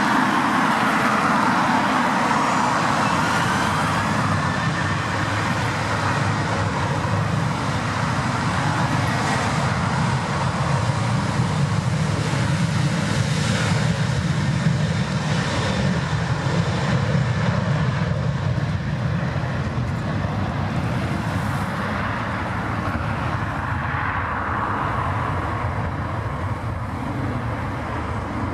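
A Boeing 737-800's CFM56-7B turbofan engines at take-off thrust: a loud, steady jet noise with a faint high whine sliding in pitch in the first few seconds. It slowly fades over the last several seconds as the jet climbs away.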